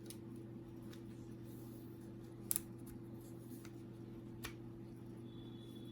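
Faint clicks of HP LaserJet P1102 fuser parts being handled as the Teflon fuser film sleeve is slid into place, with a sharper click about two and a half seconds in and another about four and a half seconds in, over a steady low hum.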